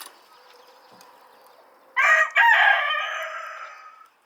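A rooster crows once, starting suddenly about two seconds in, with a brief catch near its start and a long held note that fades away.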